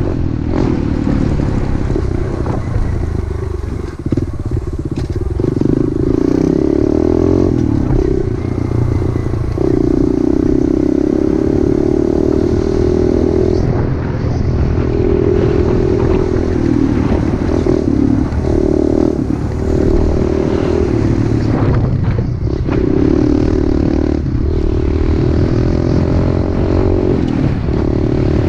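Pit bike engine running while ridden, revving up and easing off over and over, with brief drops in throttle.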